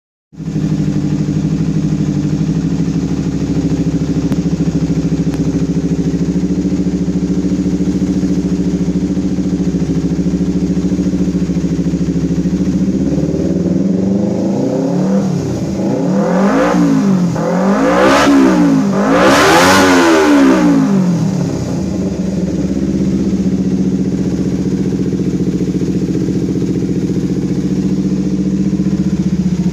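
Engine exhaust idling steadily, then blipped up three times in quick succession about halfway through before dropping back to idle.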